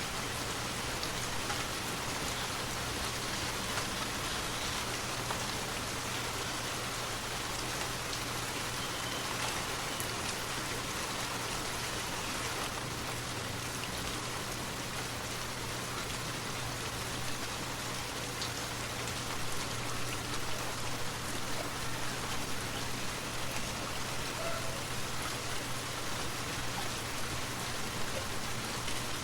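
Steady rain falling, an even continuous hiss of drops with a steady low hum beneath it, growing slightly more uneven in the last third.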